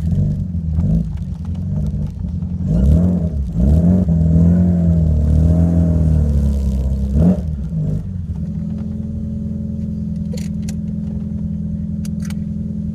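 1986 Alfa Romeo Alfasud Sprint QV's 1.5-litre flat-four boxer engine, through a stainless steel exhaust, revved in several blips and one longer held rev, then dropping back to a steady idle about eight seconds in. A few light clicks near the end.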